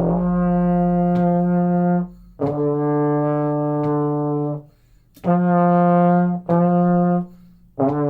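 Trombone playing a slow two-note tune: a long F, a long D a step and a half lower, two shorter Fs, then a D held on. The D is played in fourth position and the F in first, with the slide moving between them.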